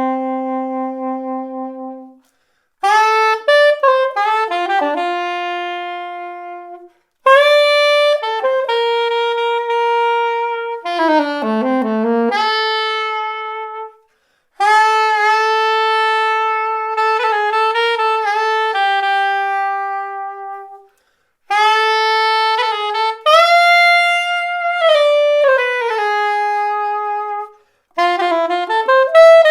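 Yanagisawa SC-901 curved soprano saxophone played solo, a jazz melody in phrases broken by short pauses for breath.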